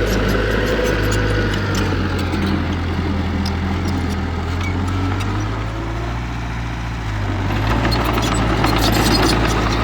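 Diesel engine of heavy earthmoving machinery running steadily, with many short rattles and knocks over it; it grows louder near the end.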